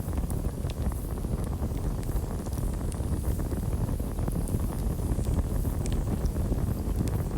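Campfire burning with a steady low rumble and scattered sharp crackles and pops.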